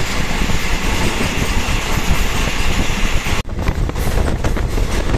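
DMU passenger train running along the line, heard from on board: a steady rush of rolling and running noise. About three and a half seconds in, the sound changes abruptly to a thinner clatter of rapid clicks.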